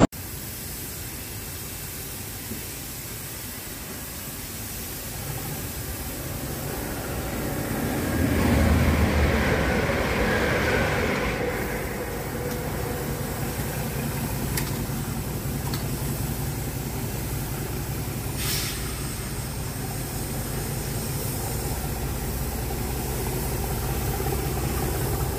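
An electric multiple-unit train passes, its running noise and motor whine swelling and peaking about a third of the way in, then fading. After that, a steady low engine drone builds slowly: English Electric Class 37 diesel locomotive 37510 approaching in the distance.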